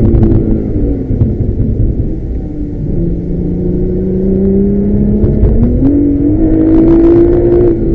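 Nissan GT-R R35's twin-turbo V6 heard from inside the cabin on the move: the engine note drops near the start, then climbs steadily under acceleration from about three seconds in, stepping up in pitch about six seconds in and growing louder.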